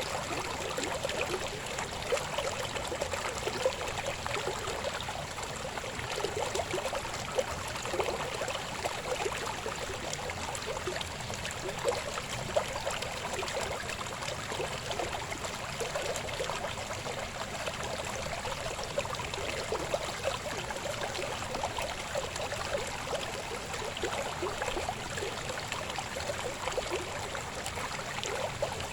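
River water babbling and splashing over rocks, a steady flow of small splashes and gurgles.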